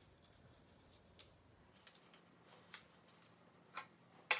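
A few faint, scattered clicks and taps of pencils being handled on a tabletop, the sharpest near the end.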